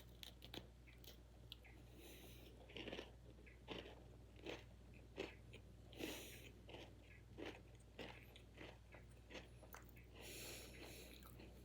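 Crunchy chocolate sandwich cookies with cinnamon cream being bitten and chewed close to the mouth. Faint, irregular crunches come every half second to a second, with a few soft breaths through the nose between them.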